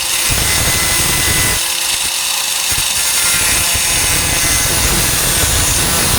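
4-1/2 in. angle grinder with a thin cutting disc cutting through the rusted steel of a pickup tailgate, a loud steady hiss and grind. About two seconds in it eases for a moment, leaving a steady motor whine, then bites again.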